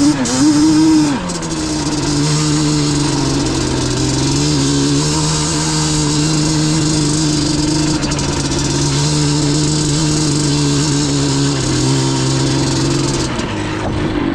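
Yamaha Banshee's twin-cylinder two-stroke engine running at a steady speed, its pitch wavering for about the first second before settling.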